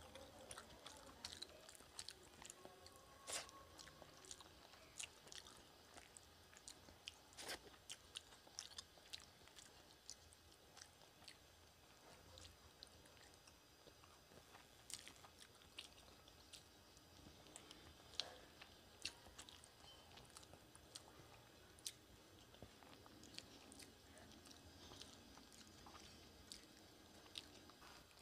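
Faint, close-up eating sounds: a person chewing rice and curry eaten by hand, with scattered sharp mouth clicks and smacks.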